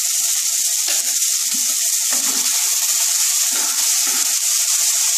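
Okra and tomato pieces sizzling steadily in hot mustard oil in a non-stick kadai. A wooden spatula scrapes and turns the vegetables a few times.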